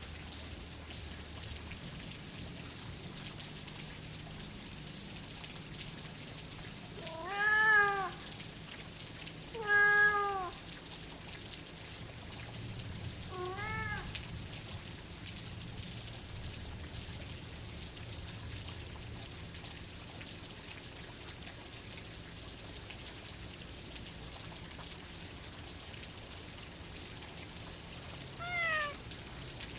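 Domestic cat meowing four times over steady rain: two loud meows close together, a softer one a few seconds later, and a fourth near the end. Each meow rises and falls in pitch.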